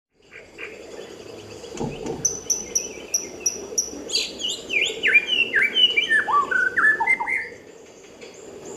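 White-rumped shama (murai batu) singing: a run of quick, evenly repeated high chirps, then a string of slurred whistled notes that step down in pitch one after another.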